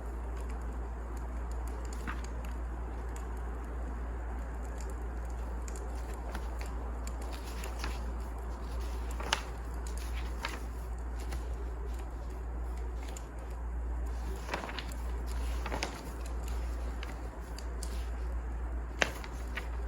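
Wood fire crackling, with scattered sharp pops, the loudest about nine seconds in and near the end, over a steady low hum.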